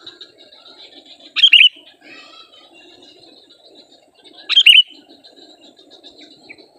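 Sooty-headed bulbul (kutilang) giving two loud, short calls about three seconds apart, over a faint, steady high chirping in the background.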